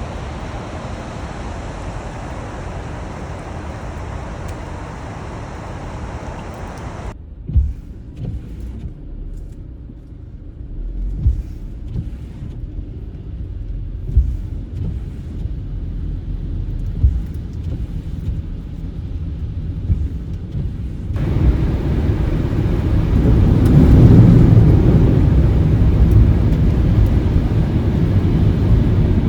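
Car driving, with steady road and engine rumble across three cut-together stretches: the first with added hiss, the middle one quieter with several sharp thumps, and the last a louder low rumble.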